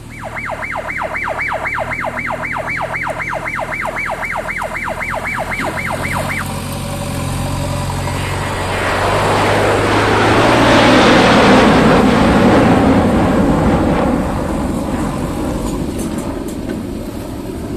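An electronic siren-like warning horn warbles rapidly up and down, about three and a half sweeps a second, for roughly six seconds over the steady hum of a diesel engine, likely the JCB 3DX backhoe loader's. After that a vehicle passes close by loudly, peaking mid-way and then fading, while the engine hum continues.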